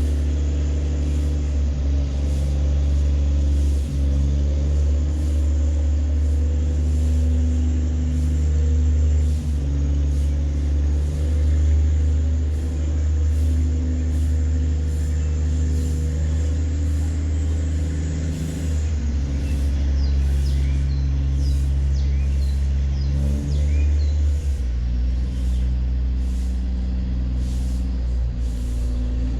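A tugboat's engine runs steadily under load while towing a cargo barge, giving a continuous deep, low drone. The drone shifts slightly in pitch near the end.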